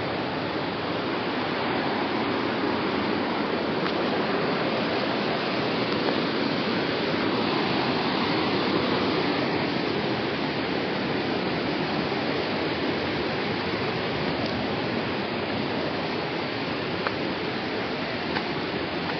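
Steady rushing water of a waterfall or fast stream, a dense even roar without letup, with a few faint ticks near the end.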